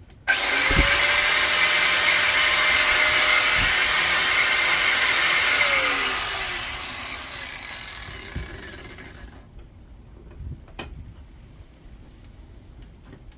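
Angle grinder spinning up and grinding into a piece of copper held in a vice for about five seconds: a scratch test, cutting through to show the bare metal's colour and tell copper from aluminium. It is then switched off and winds down over a few seconds, with one sharp click near the end.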